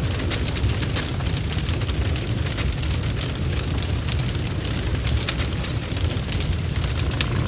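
Wood fire burning with a steady low rumble and frequent sharp crackles and pops scattered throughout.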